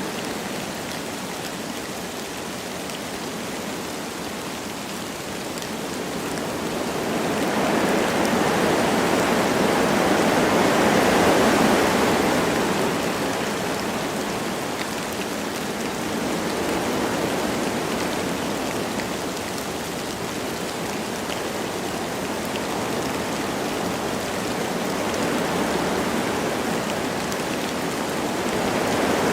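Wind blowing through forest trees with light rain falling. A gust swells louder about a quarter of the way in, eases off, and builds again near the end.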